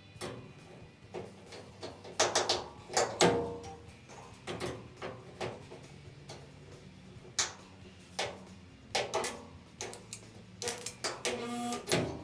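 A series of irregular clicks and knocks, a few of them ringing briefly, as of tools or metal being handled.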